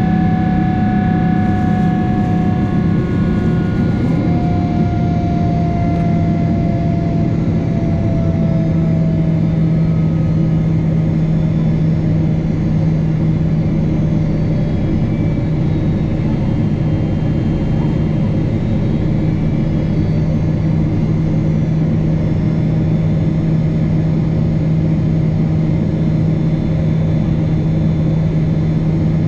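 Cabin noise of a Boeing 777-300 airliner with its jet engines running: a steady low drone under a whine that slides slowly down in pitch over the first ten seconds or so.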